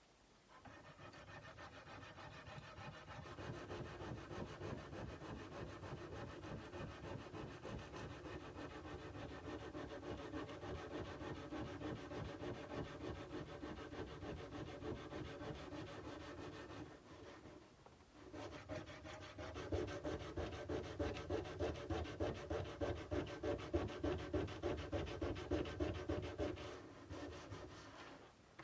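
Sandpaper rubbed by hand back and forth along a Nepalese kukri's steel blade in quick, even strokes, about three a second, with a short break partway through.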